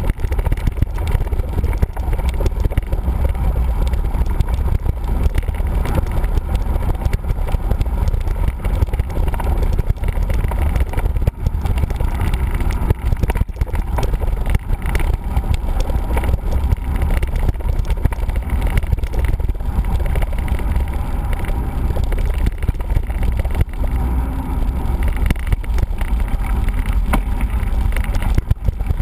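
Wind rushing over the microphone of a camera on a moving mountain bike, a steady low rumble with constant small knocks and rattles from the ride.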